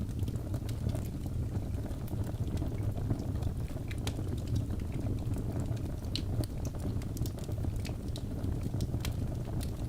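Birch logs burning in a fireplace: a steady low rumble of the flames with frequent small, sharp crackles and pops scattered throughout.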